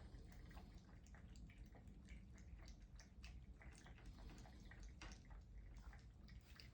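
A cat eating its breakfast: a quiet, irregular run of small wet clicks from its chewing and licking, several a second.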